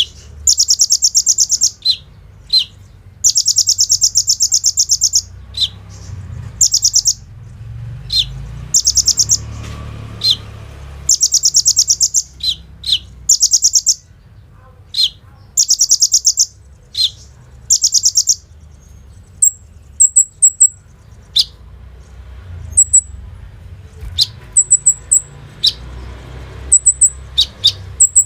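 Ruby-cheeked sunbird (kolibri ninja) singing in full song: fast, high, buzzy trills about a second or two long, alternating with short sharp single notes. In the last third the trills stop and it gives mostly brief very high chips in quick clusters.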